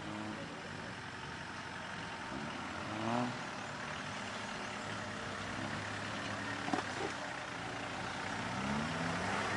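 An off-road 4x4 truck engine runs steadily and revs up twice, once about three seconds in and again near the end. A sharp click or knock sounds about two-thirds of the way through.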